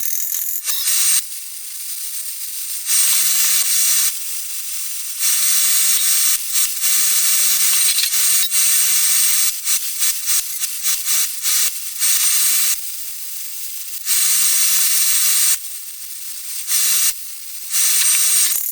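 Electric arc welding in short bursts: a crackling hiss that starts and stops every second or two, with a run of quick stuttering tacks in the middle, as nuts are welded onto the forge's thin steel pipe wall.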